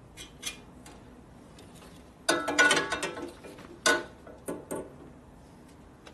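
Metal tools and parts clinking and clanking during hand work on a motorcycle, with a few light clicks, a burst of rattling about two seconds in, and a sharp clank near four seconds.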